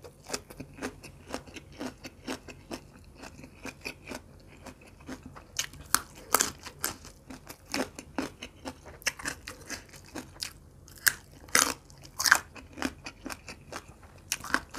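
A person chewing food with the mouth closed: a run of irregular crisp clicks, with a few louder crunches in the second half.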